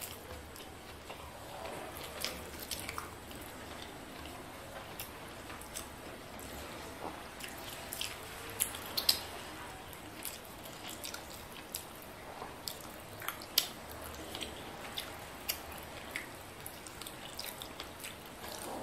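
Close-miked eating sounds: wet chewing and lip smacks on a mouthful of rice and fish, with many short sharp clicks scattered throughout, the sharpest about halfway and again about two-thirds in. Fingers squish and mix rice on the plate.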